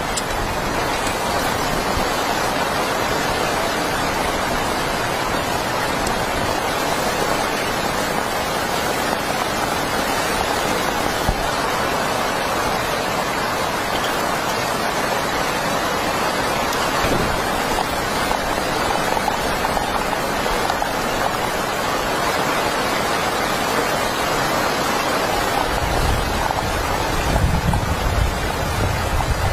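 Heavy rain falling steadily, a dense even hiss. Near the end a low rumble joins it for a few seconds.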